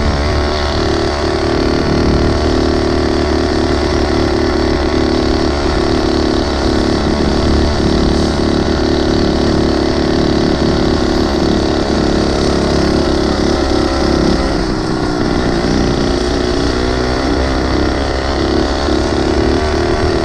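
Small engine of a motorized 20-inch mini bike running steadily in traffic, its note dipping briefly about two-thirds of the way through.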